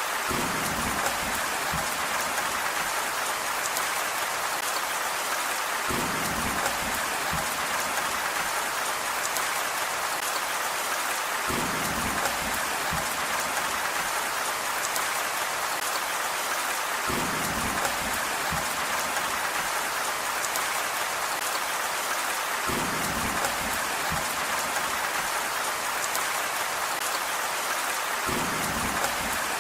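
Steady rain, an even hiss of drops falling on a surface. Short low rumbles recur about every five to six seconds.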